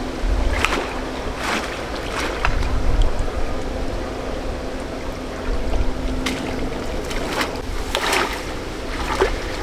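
Water sloshing with several short, sharp splashes over a low rumble.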